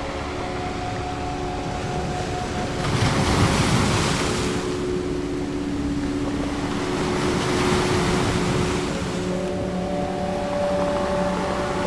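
Ocean waves washing in twice, each a swell of surf noise that builds and fades over a second or two, over a soft drone of steady held tones.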